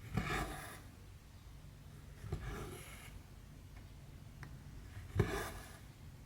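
Embroidery thread pulled through cross-stitch canvas by hand, three times about two and a half seconds apart: each stitch is a sharp poke followed by a short rasp of floss drawn through the fabric.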